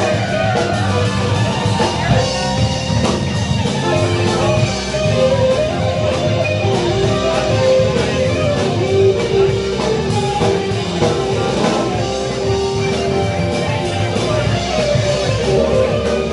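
Rock band playing, with guitar lines over a drum kit.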